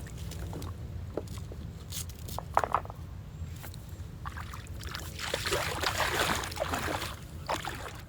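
Water splashing and sloshing around a paddle board, with a couple of sharp knocks a little over two and a half seconds in and the splashing loudest from about five to seven seconds in.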